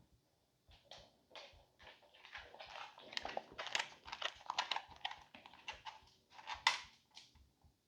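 A dog moving about close by: a run of quick, irregular scuffling noises that builds up, with a sharper knock near the end, then stops.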